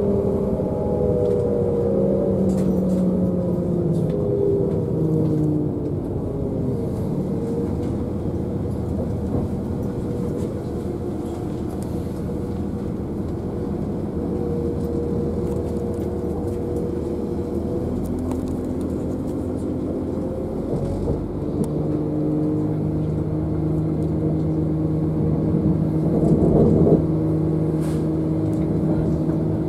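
Running noise of a moving passenger train heard inside the carriage: a steady rumble with a humming drone that falls in pitch over the first few seconds, then holds at a steady pitch. A short louder burst comes about 27 seconds in.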